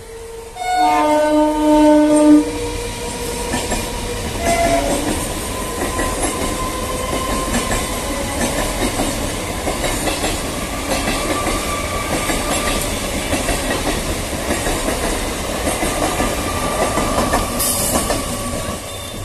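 Electric suburban local train (EMU) sounding a horn blast of about two seconds, with a short second toot a couple of seconds later. It then runs close by, its wheels clattering steadily over the rail joints until the train has passed.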